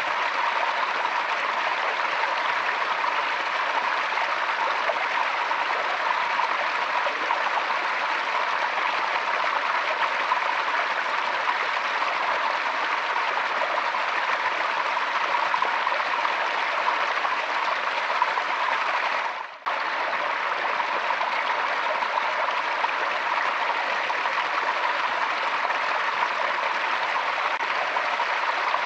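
Forest stream flowing steadily over rocks, a constant rush of water, with a momentary drop-out in the sound about two-thirds of the way through.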